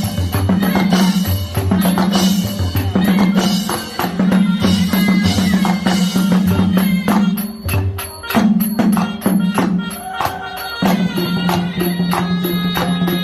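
Traditional southern Thai Nora (Manora) ensemble music: drums beating a repeating pattern under dense, fast clicking percussion, with a short break in the drumming about two-thirds of the way through before it settles into a steadier beat.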